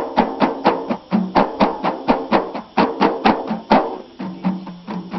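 Ahidous music: bendir frame drums struck in a fast, even rhythm of about four beats a second, with group voices holding low sung notes beneath; the drumming thins out briefly near the end.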